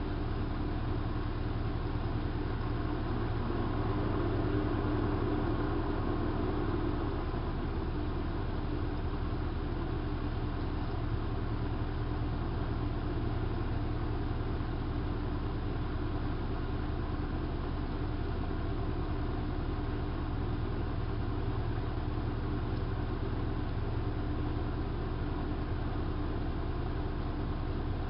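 hanseatic HWM814A3D front-loading washing machine running, a steady, unbroken motor hum with no pauses or changes in level.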